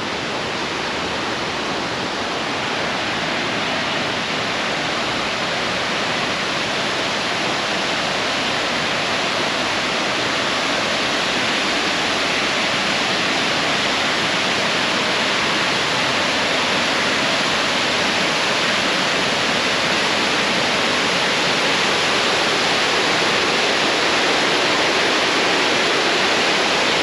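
Cam Ly Waterfall's falling water: a steady rushing hiss that grows slightly louder over the span.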